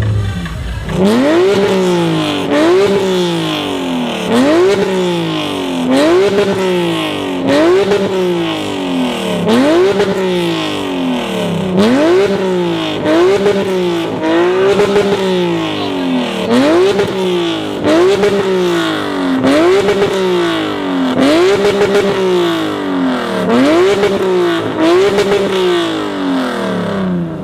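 Car engine revved over and over in a steady rhythm, climbing quickly and dropping back about once a second.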